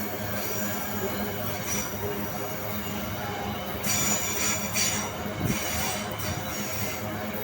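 Loaded freight train rolling past, a steady rumble of the wagons on the rails with thin, high wheel squeals coming and going.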